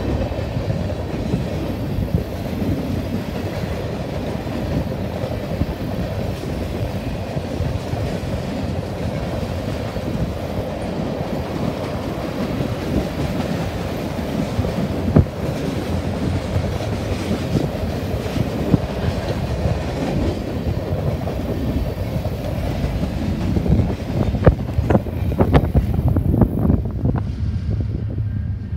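Freight train cars (covered hoppers and a tank car) rolling past: a steady rumble of steel wheels on rail with clickety-clack over the joints, and a run of sharper clanks near the end.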